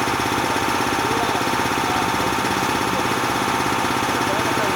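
Bauer 330-bar high-pressure piston air compressor running steadily, with a rapid, even pulse.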